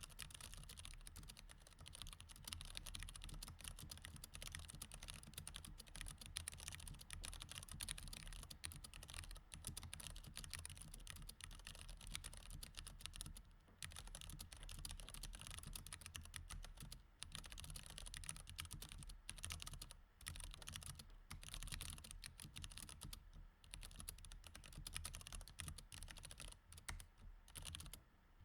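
Mechanical keyboard with Cherry MX Red switches being typed on quickly and continuously, a dense run of quiet key clicks broken by a few brief pauses.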